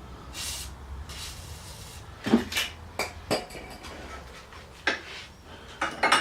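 Metal hand tools clinking and knocking as a socket and ratchet are handled and fitted onto rusty suspension bolts, with several sharp clinks in the second half. Two short hisses come in the first two seconds.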